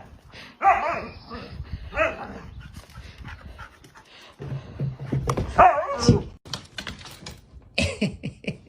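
A dog barking and yipping in several separate outbursts, some with a wavering, whiny pitch.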